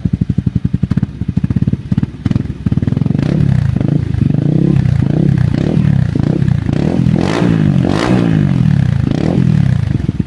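Honda CRF250's single-cylinder four-stroke engine running through an FMF Q4 exhaust, first idling with an even thumping beat. From about three seconds in it is blipped repeatedly, the revs rising and falling several times, highest about seven and eight seconds in, before settling back to idle near the end.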